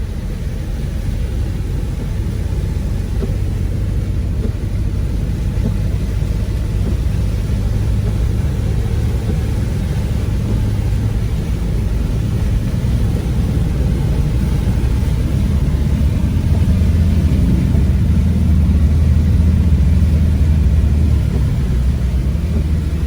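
A vehicle engine running with a steady low rumble, growing louder for a few seconds about two-thirds of the way through.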